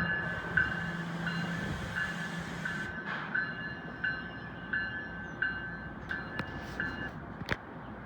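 Railroad grade-crossing warning bell ringing in even electronic strokes, under two a second, until it stops about seven seconds in, over the fading rumble of a passing train and wind noise.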